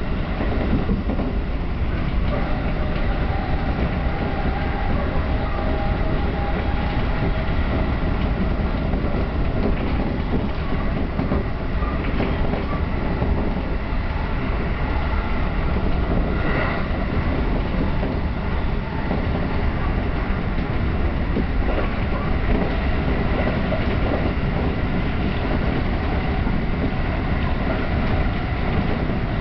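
Electric train running along the line, heard from inside: a steady rumble of wheels on rail with faint steady tones above it and a few brief clicks.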